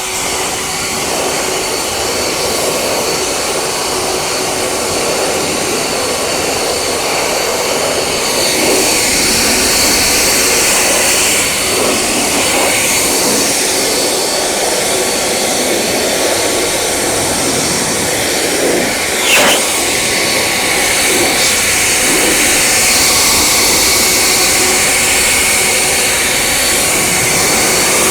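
A motor-driven car-cleaning machine running steadily with a loud rushing hiss, a little louder from about eight seconds in.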